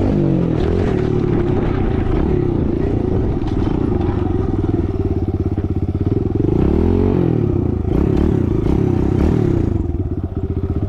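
Kawasaki KLX110 dirt bike's small single-cylinder four-stroke engine running under riding. The revs drop at the start, fall and climb again about seven seconds in, and settle to an even, steady beat near the end.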